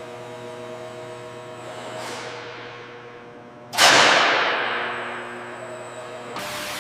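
A steady hum made of several fixed tones. About four seconds in comes a loud sudden whoosh that falls in pitch and fades over a couple of seconds.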